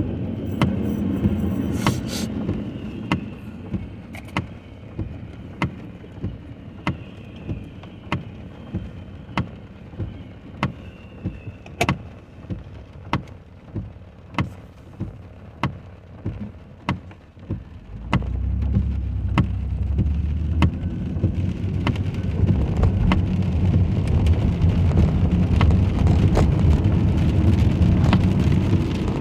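Rain on a car, heard from inside, with a steady, regular clicking about one and a half times a second. About 18 seconds in, a deep rumble starts suddenly and grows louder.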